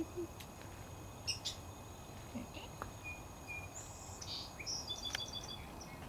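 Small birds calling out of sight: scattered short, high chirps and call notes, not melodic song, with a few different call types mixed together.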